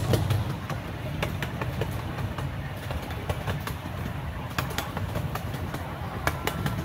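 Amusement-park train riding along its track, heard from an open passenger car: a steady low rumble with irregular sharp clicks and clacks from the wheels on the rails.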